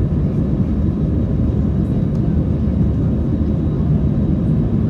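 Steady low rumble inside an Airbus A321's passenger cabin in flight, the engine and airflow noise heard from a seat.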